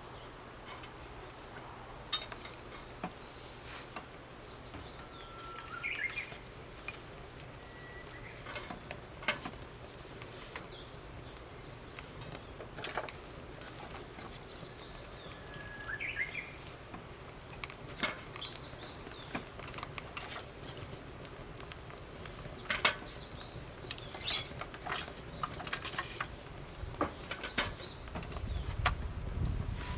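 Wood fire crackling in a fire pit, with irregular sharp pops and snaps. A bird calls twice with short rising notes, and a low rumble builds near the end.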